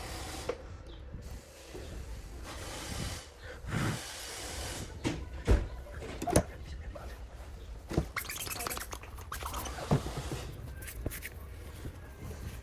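Irregular clicks, knocks and rustling of small parts and hand tools being handled, with several sharp taps through the middle.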